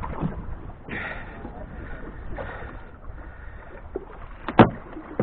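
Water washing against a small fishing boat's hull in soft swells, with one sharp knock on the boat near the end.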